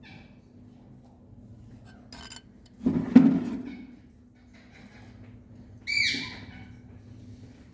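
A ringneck parrot gives one short, loud screech about six seconds in, with a dull knock about three seconds in and a faint rattle just before it.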